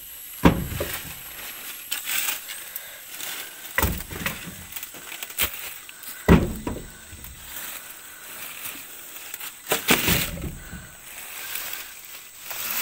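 Sawn firewood logs knocking and thudding as they are gathered up and dropped, about five heavy knocks spaced a few seconds apart.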